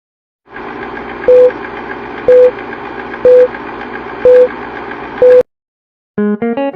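Five short, loud electronic beeps, one a second, over a steady hiss. The sound cuts off abruptly, and near the end a quick rising run of notes starts.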